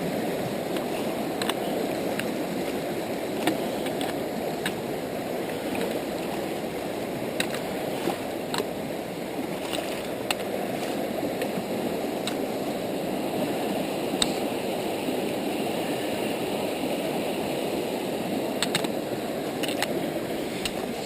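Steady rush of river water, with scattered short clicks and knocks over it.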